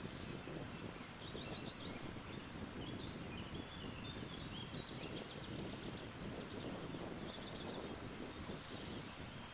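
Steady wind through branches and leaves with small birds chirping and giving short trills again and again.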